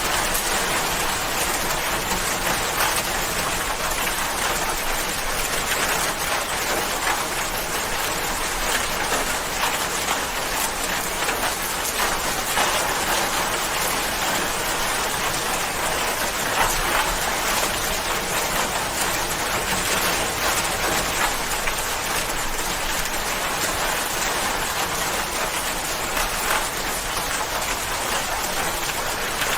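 Steady rain falling, an even dense hiss with many small drops striking a surface.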